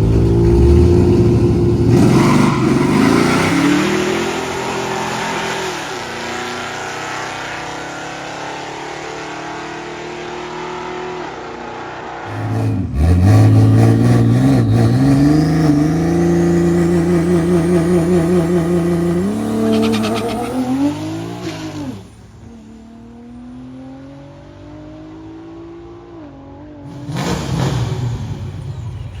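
Drag-racing cars launching and accelerating hard down the strip, engine pitch climbing and stepping down through gear shifts. A second, louder run starts about halfway through with a rising high whine over the engine, then fades away.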